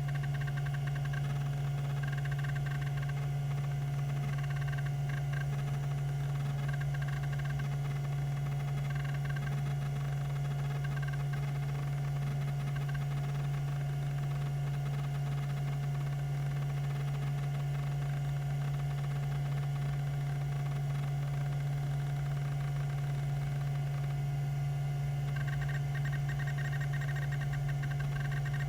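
Tandon TM362 20 MB MFM hard drive running, its 3600 rpm spindle giving a steady low hum with a steady higher whine. Short patches of higher buzzing come and go, growing steadier near the end.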